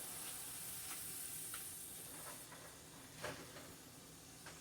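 Frozen chopped onion, celery and peppers sizzling faintly in melted butter in a pan, the high hiss easing about halfway through, with a few light knocks; the clearest comes about three seconds in.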